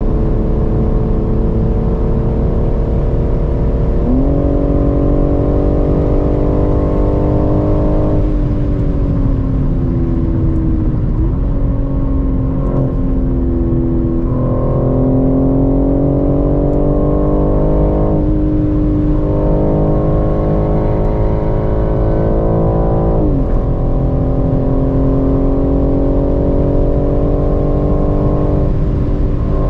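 BMW M3 Competition's S58 3.0-litre twin-turbo straight-six at autobahn speed, heard from inside the cabin over steady road and wind rumble. The engine note sinks as the car slows and climbs again as it accelerates, with a sudden jump in pitch about four seconds in and another near 23 seconds as the gearbox downshifts.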